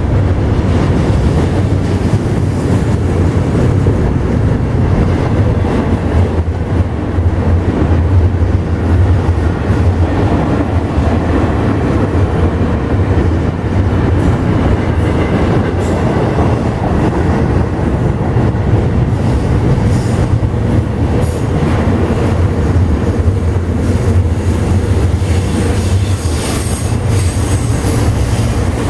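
A train rolling past with a steady, loud rumble of wheels on the rails, and a high wheel squeal coming and going in the last several seconds.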